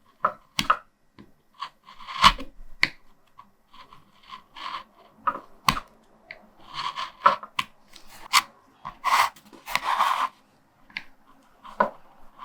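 Hand linoleum cutter gouging a linocut block in short, uneven strokes: crisp scraping and crunching cuts with small sharp clicks as the blade bites and lifts, the strongest strokes about two seconds in and again around nine to ten seconds.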